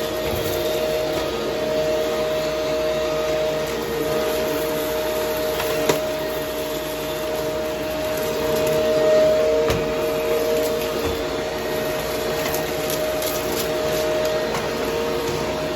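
Vacuum cleaner running steadily with a droning motor hum, picking up dry debris that makes scattered small crackles and one sharp click about six seconds in.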